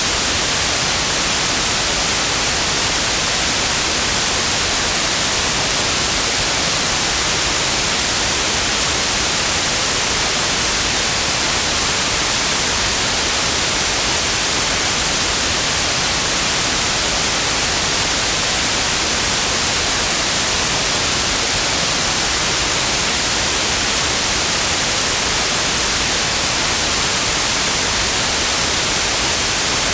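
Steady, unchanging white noise: an even, loud hiss that is strongest in the high end, with no tones or events.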